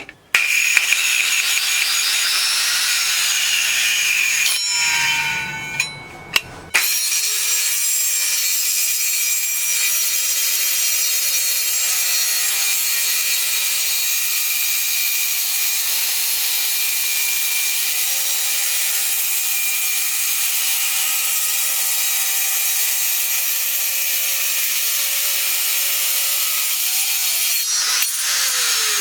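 Restored old electric circular saw cutting through wood: a steady, high-pitched hissing cut. About five seconds in there is a short lull with two sharp clicks, then a long continuous cut.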